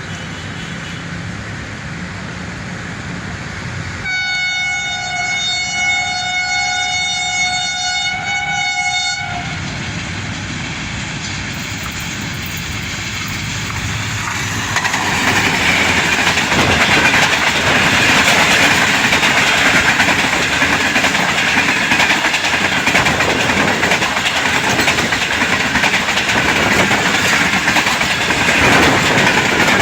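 HGMU-30 diesel locomotive sounding one long multi-tone horn blast of about five seconds, starting about four seconds in, over its engine rumble. From about fifteen seconds on, the train passes close with loud wheel and rail noise.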